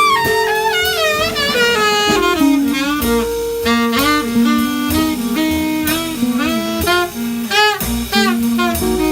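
Live jazz quartet playing: a saxophone winds through quick runs of notes, with a downward slide early on, over bass notes and drums.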